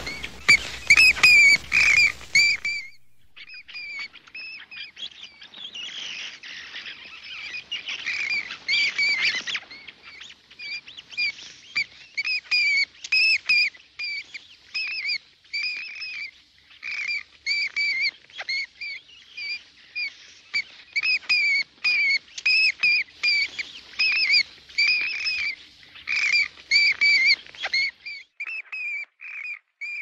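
Bird chirping sound effect: a long series of short, arching chirps, two or three a second. A louder, noisier scrabbling sound fills the first couple of seconds before the chirps take over.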